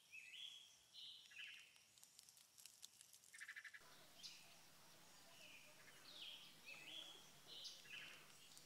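Faint birdsong: a phrase of short whistled notes stepping down in pitch, ending in a quick rattling trill, heard twice. Faint outdoor ambience joins about four seconds in.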